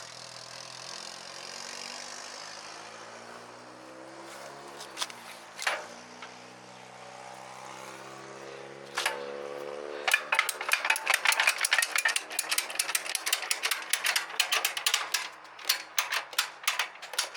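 A steady engine hum whose pitch drifts up and down. About ten seconds in, rapid irregular clicking starts and keeps going, like a ratcheting mechanism being worked.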